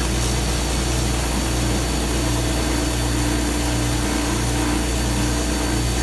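Stationary power sander running steadily with a low hum while the end of a wooden box is sanded to take off tear-out.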